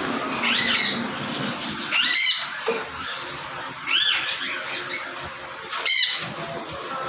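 African grey parrot squawking: four harsh calls, each rising then falling in pitch, spaced about two seconds apart.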